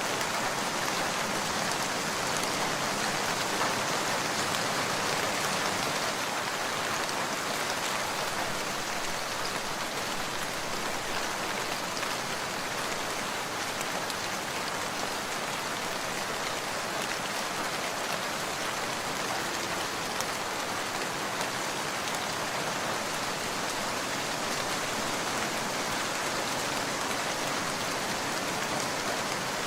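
Steady rain falling and pattering on surfaces, an even, unbroken hiss with no change in strength.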